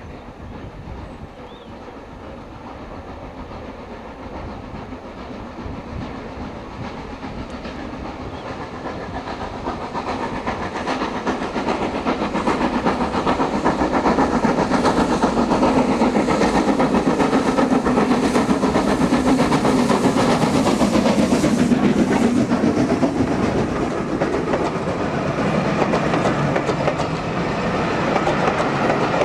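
A train climbing a steep railway gradient, approaching and passing close. It grows steadily louder over the first half, then stays loud as it goes by.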